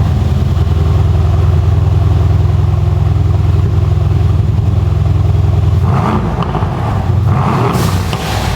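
Mercedes-AMG C63 S twin-turbo V8 idling steadily with a deep exhaust rumble, still on its stock downpipes. The low rumble eases a little about six seconds in, with some rougher rasp coming up.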